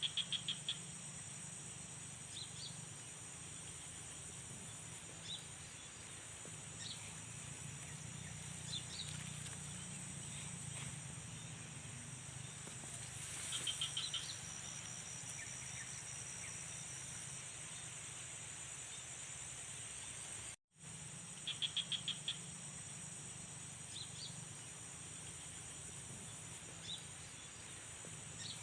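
Rice paddy night chorus: a steady high-pitched chirring of crickets and other insects over a low steady drone, with frogs giving short calls of rapid pulses now and then. The frog calls are loudest at the very start, about halfway through and about three-quarters through. The sound cuts out for a moment about two-thirds of the way in.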